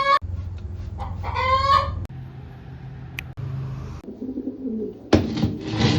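Pigeons calling in a loft: a rising pitched call twice in the first two seconds, then low wavering cooing from about four seconds in. A loud rustling burst comes near the end, with a steady low hum underneath in places.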